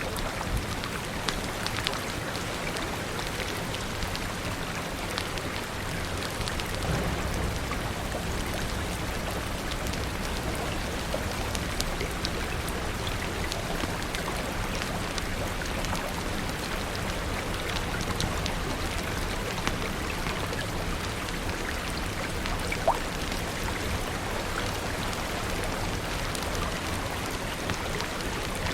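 Steady rain falling, an even hiss with scattered sharp clicks of drops or crackles throughout, over a low rumble that grows a little stronger about seven seconds in.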